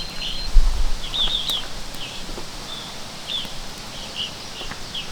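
Small birds chirping: many short, quick calls throughout, with a brief low thump about half a second in.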